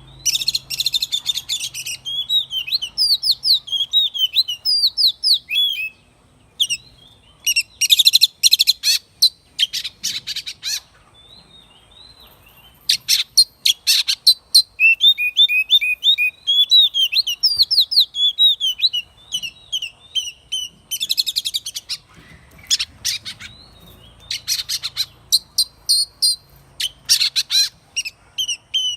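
Oriental magpie-robin singing: a run of varied phrases of clear whistles, slurred notes and rapid scratchy trills, separated by short pauses.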